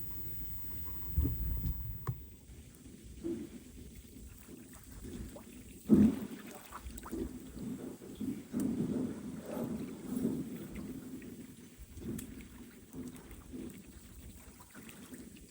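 Wind-driven lake waves lapping and slapping at the water's edge in irregular pulses, with one sharp, loud slap about six seconds in. Gusts of strong wind rumble on the microphone near the start.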